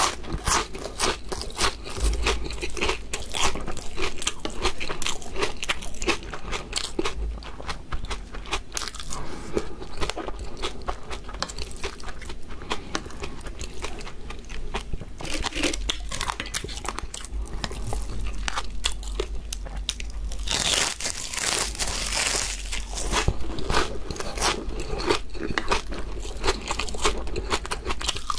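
Close-miked crunching and chewing of crisp fried seaweed chips (gim bugak) with mouthfuls of rice, a dense run of crackles.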